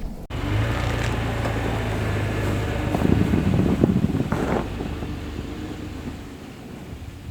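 Pickup truck on the move: a steady low engine hum with road noise that swells a little about three seconds in and fades toward the end.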